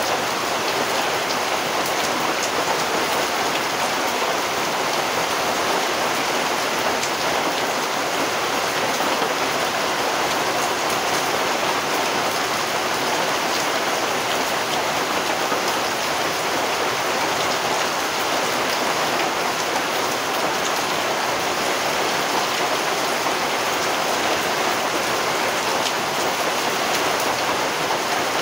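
Steady rain falling, an even hiss with a few single drop ticks now and then.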